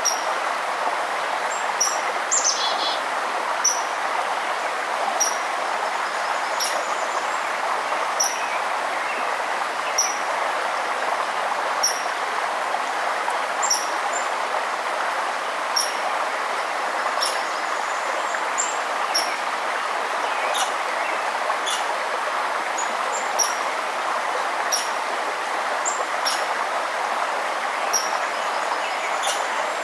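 Running river water, a steady rushing, with a bird repeating a short high chirp about every second and a half and other brief high bird notes scattered over it.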